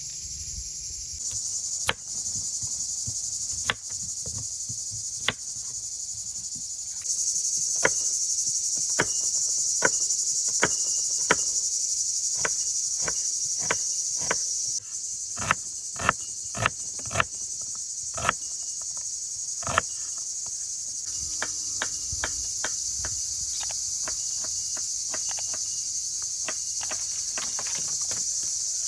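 A steady, high chorus of crickets or other insects, broken by a series of sharp knocks a second or so apart, faster in places.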